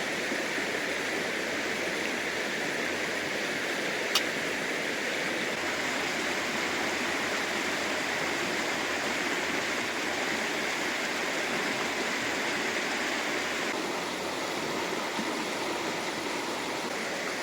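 Fast river water rushing steadily, with one sharp click about four seconds in.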